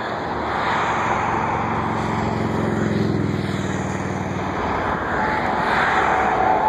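Jet airliner engines at an airport: a steady rushing noise with a low droning hum that drops away about four and a half seconds in, and a steady higher whine near the end.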